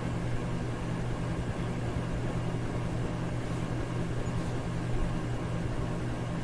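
Electric fan running steadily: an even rush of air over a low, steady motor hum.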